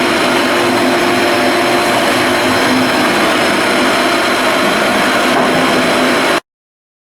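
Steady, loud machinery noise with a constant hum running through it, cutting off abruptly to dead silence about six and a half seconds in.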